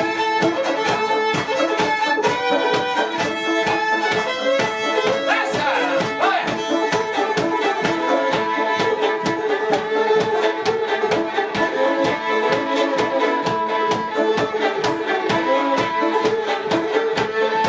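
Live traditional fiddle tune: a fiddle carries the melody over a brisk, steady rhythmic accompaniment.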